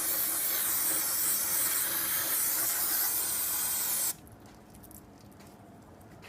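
Aerosol can of brake cleaner spraying in one long steady hiss while parts are cleaned, stopping abruptly about four seconds in.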